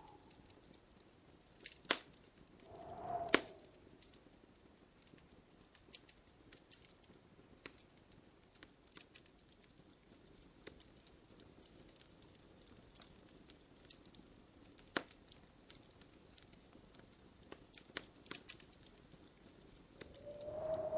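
Wood fire crackling in a fireplace, with a faint steady hiss and scattered sharp pops; the loudest pops come about two and three seconds in. A short low pitched sound swells and fades about three seconds in and again at the end.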